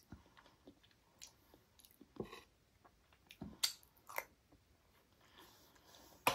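Close-miked chewing and wet mouth sounds of a person eating a soft Indian sweet off a spoon, with several sharp clicks from the spoon.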